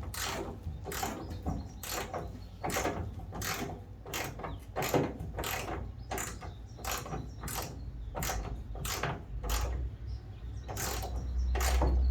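Hand socket ratchet clicking as it is swung back and forth to turn out a bumper bolt, about two strokes a second. A low rumble comes in near the end.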